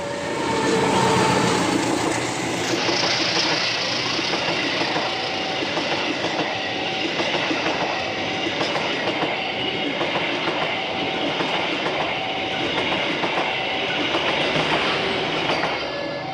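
A train passing close by, its wheels clattering over the rail joints in a steady rhythm. Behind it a level-crossing warning alarm sounds two alternating tones.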